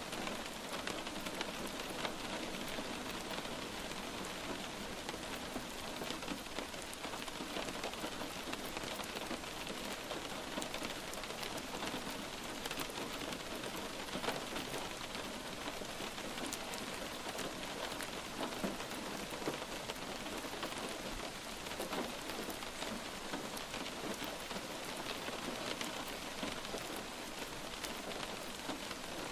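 Steady light rain falling on a surface: an even hiss of rain with many small, scattered drop impacts.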